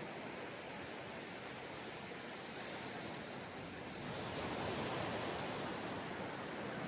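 Ocean waves washing onto a sandy beach: a steady rush of surf that swells again about four seconds in.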